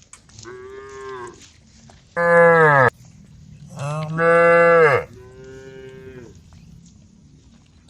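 Cattle mooing: four calls. The two middle ones are loud and lower-pitched, and the first and last are fainter and higher. Each call drops in pitch as it ends.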